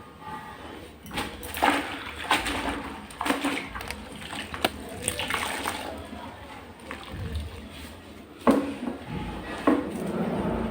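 Water sloshing and splashing as a cleaning cloth is worked in detergent water, broken by several sharp knocks and clatters.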